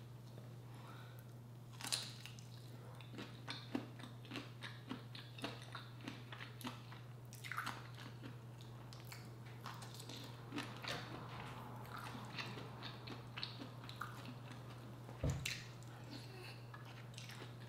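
Close-miked chewing and biting of shrimp and other seafood in butter sauce. It comes as wet, irregular mouth clicks and smacks, with a steady low hum underneath.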